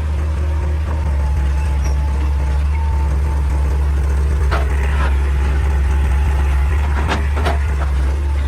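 Excavator's diesel engine running at a steady drone, with a handful of sharp knocks, two about halfway through and a few more near the end.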